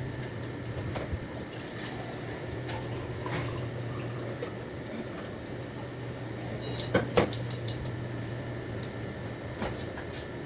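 Small computer cooling fan running quietly with a steady low hum, its centre bearing freshly lubricated with petroleum jelly spray so that it no longer makes its earlier loud noise. A few sharp clicks come about seven seconds in.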